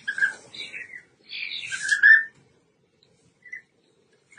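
European bee-eaters calling: a run of overlapping chirps for about two seconds, then a couple of short single calls near the end.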